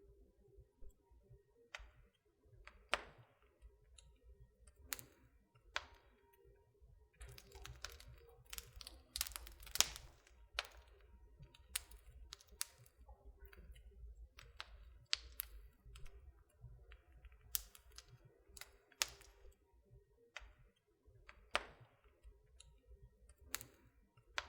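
Wood fire in a fireplace crackling: irregular sharp pops and snaps, thickest in a quick run near the middle, over a faint low rumble of the flames.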